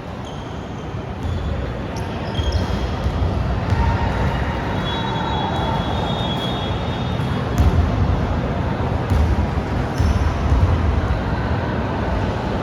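Basketball game court sounds: a few short high sneaker squeaks on the floor and scattered ball bounces, over a steady low rumble.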